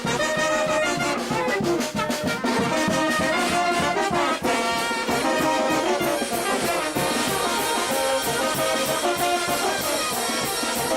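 Brass band playing a lively tune, with trumpets and trombones carrying the melody over a steady percussion beat.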